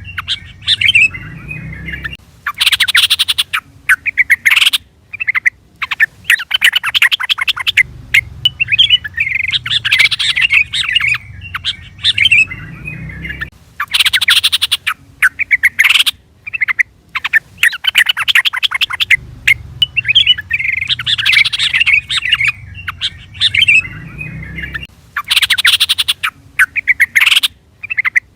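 Yellow-vented bulbul (trucukan) calling: bubbly liquid phrases alternating with harsh, scratchy chatters. The same sequence repeats about every eleven seconds, as in a looped calling recording.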